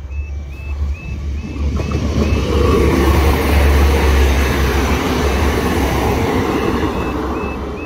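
Passenger train passing over a level crossing: its rumble and wheel noise build to a peak about three to four seconds in, then ease off. Over it the crossing's alarm keeps sounding a fast, repeating stepped tone.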